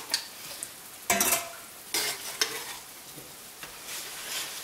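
Potato pieces sizzling steadily as they shallow-fry in hot oil in a skillet, with metal tongs knocking and scraping against the pan a few times as the pieces are turned, the loudest clack about a second in.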